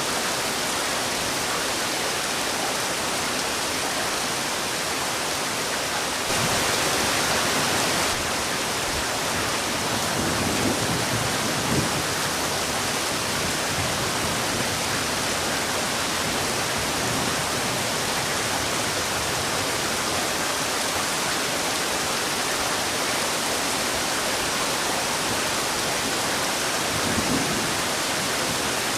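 Heavy rain falling in a steady, dense downpour, swelling slightly louder for about two seconds partway through.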